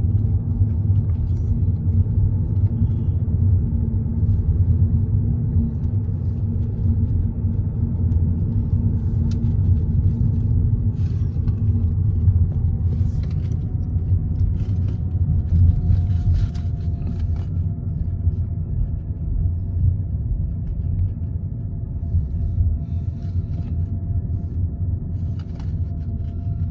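Car road noise heard from inside a moving car: a steady low rumble. A faint steady whine joins about halfway through.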